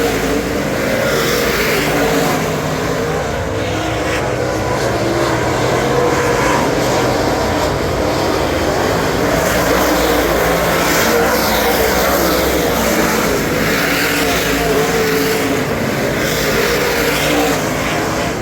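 A super late model's 422 cubic inch Ford V8 running hard under race load, its note rising and falling repeatedly through the laps.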